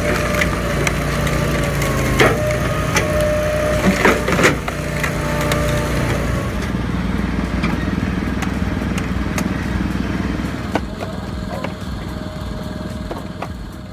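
Engine-driven firewood processing machine running steadily while wood cracks and splits, with several sharp cracks in the first five seconds. A steady whine runs over the engine and stops about six and a half seconds in.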